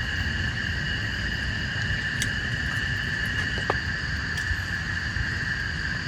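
Steady rainfall in a tropical forest under a continuous insect chorus holding a few steady high pitches, with scattered drips ticking.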